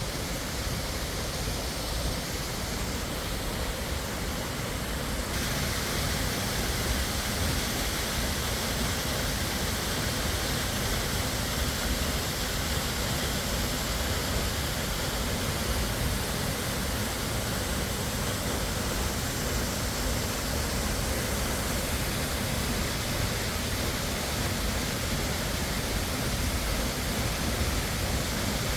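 Waterfall: a steady rush of falling water that gets a little louder and brighter about five seconds in.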